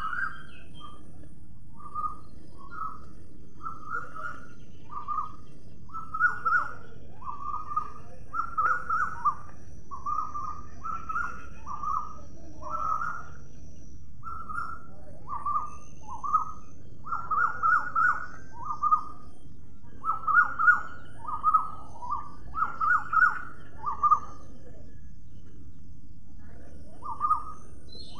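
A bird calling over and over in short chirps, about one or two a second and sometimes in quick pairs. The calls stop a few seconds before the end, with one last call after the gap.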